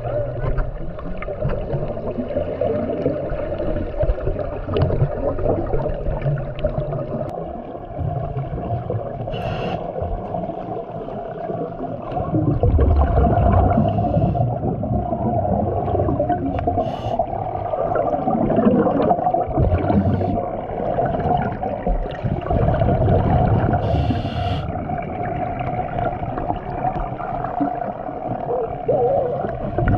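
Underwater sound from a camera below the surface: a muffled, steady motor hum with a low rumble, slowly rising and falling in pitch, water movement, and a few short hissing bursts of bubbles.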